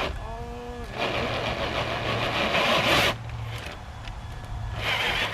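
Electric RC rock-crawler truck driving over rock and dirt: its motor and drivetrain whir while its tires scrabble, in a spell of about two seconds followed by a shorter one near the end. A brief steady hum sounds just before the first spell.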